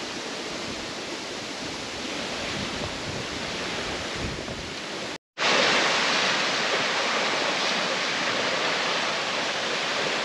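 Steady outdoor rushing noise with no distinct events. It cuts out for an instant about five seconds in and comes back a little louder.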